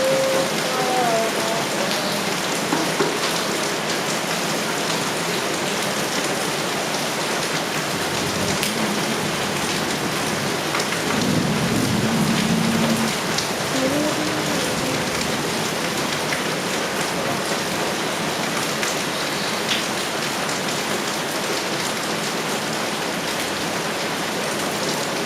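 Heavy rain pouring steadily, a dense, even hiss. A brief low rumble swells about halfway through.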